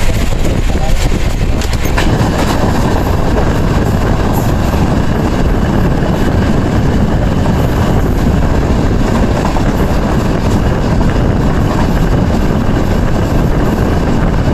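Indian Railways passenger train running at speed, heard from the open coach doorway: a steady, loud rumble and rush of wheels on rail with air noise.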